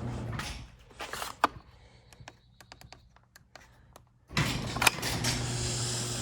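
Legacy chain-drive garage door opener running, cutting off about half a second in. A few seconds of low level with scattered clicks follow, and then the opener starts running again with a steady hum about four seconds in. The chain slaps as it runs, which the owner finds annoying.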